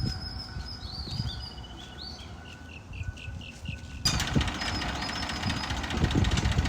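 Birds chirping in a quick repeated series over a faint low rumble; about four seconds in, an engine is suddenly heard running with a low, uneven pulse, louder than the birds.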